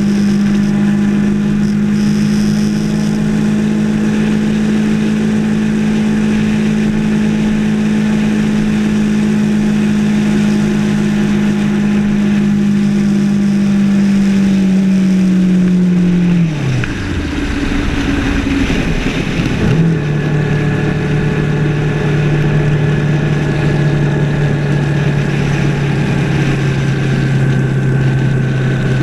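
Yamaha R3 motorcycle's 321 cc parallel-twin engine running at a steady cruising note under wind and road noise. About sixteen seconds in the revs fall away sharply as the rider backs off. A few seconds later the engine picks up again at a lower, steady pitch.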